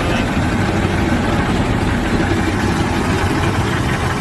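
A heavy machine's engine running steadily and loudly, a rough rumble with no change in speed.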